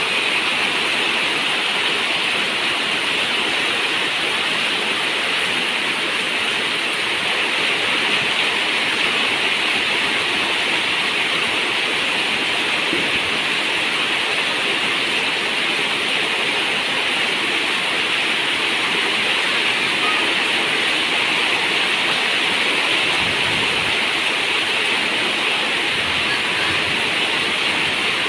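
Steady rain on a zinc roof: an even, unbroken hiss of water.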